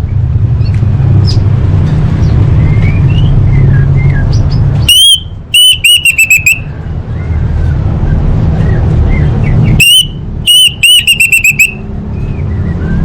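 Orange-headed thrush song: two loud bursts of rapid, repeated clear whistled notes, about five seconds apart, with fainter chirps in between, over a steady low rumble.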